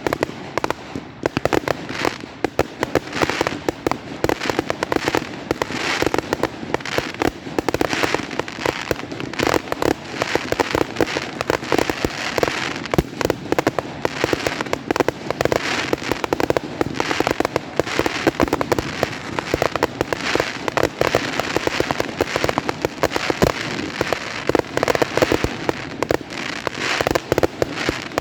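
Fireworks going off in a dense, unbroken barrage of rapid bangs and crackling pops.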